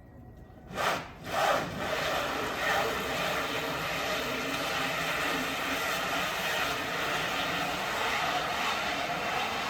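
Two short rubbing scrapes about a second in, like a door being pulled open. Then a steady rushing noise with a low drone from a car stuck on an iced-over hill, its engine running as it tries to get free.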